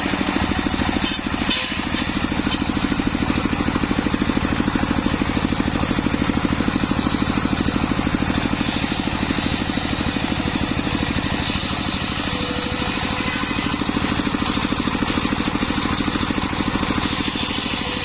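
Engine driving a homemade circular saw rig, running steadily with a fast, even beat. A higher hiss comes in about halfway through and again near the end as the blade cuts through sengon wood.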